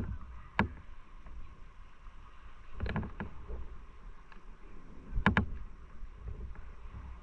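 Motorcycle being ridden: a steady low engine rumble, with short sharp knocks about half a second in, about three seconds in, and twice in quick succession just past five seconds.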